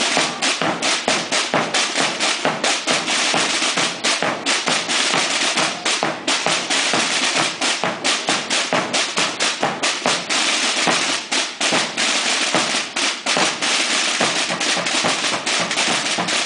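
Semana Santa drum corps of snare drums (tambores) playing a fast, dense rhythm of rolls and strokes.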